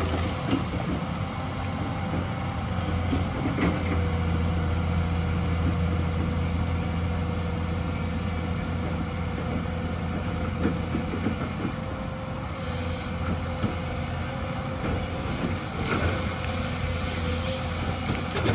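Hyundai excavator's diesel engine running steadily under load, with a steady whine over a low drone. Occasional knocks, and two brief hisses in the second half.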